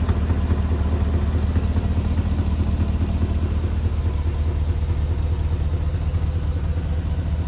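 2004 Chevrolet Silverado dump truck's engine idling steadily, with a rapid, even pulsing. The owner puts this down to an exhaust manifold leak where the front manifold bolt is broken.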